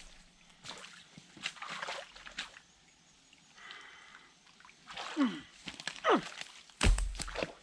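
Cut pieces of a tree trunk being hauled out of creek water and thrown: splashing and several short knocks of wood, with one heavy thud near the end.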